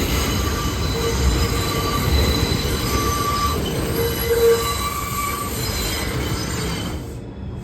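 New York City subway train of R142 cars moving through the station with its wheels squealing, several high squeal tones coming and going over a rumbling run of the train. The high squealing drops away suddenly near the end.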